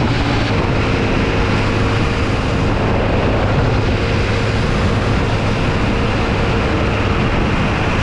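Motorcycle engine running steadily under way, with a rush of road and wind noise.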